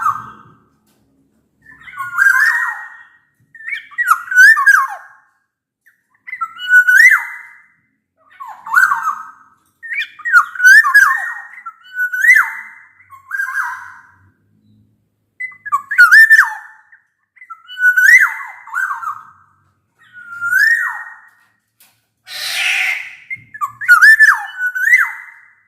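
Black-naped oriole singing: loud, fluty whistled phrases that slide up and down, repeated every second or two, with one harsh, rasping call near the end.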